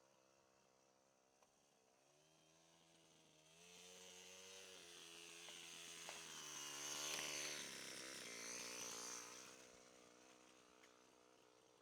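Motor Sich walk-behind tractor's engine running, growing louder over several seconds as it comes closer, with a hiss over the engine note at its loudest, then fading away again.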